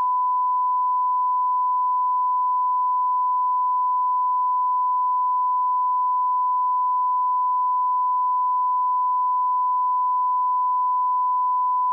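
Continuous 1 kHz sine-wave line-up tone at −18 dBFS: a single pure steady pitch held at a constant level throughout, with no break.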